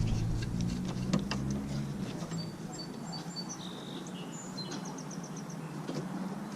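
Small bird chirping in the background: a run of short high-pitched notes starting about two seconds in, ending in a quick trill of about five notes a second. A few faint clicks and a low steady hum lie underneath.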